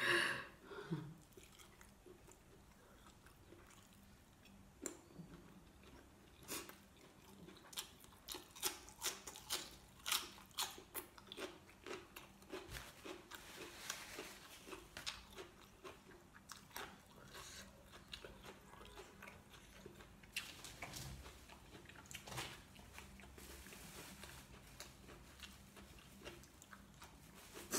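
A person chewing a mouthful of sticky rice and braised chicken liver close to the microphone: short crunching chews, about two a second, that grow softer after about seventeen seconds.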